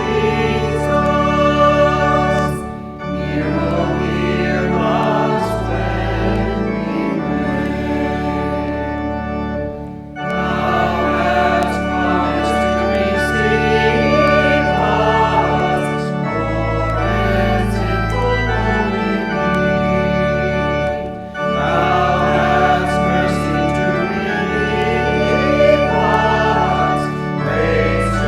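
Church music: an organ holding sustained chords with singing over it, in phrases separated by brief pauses.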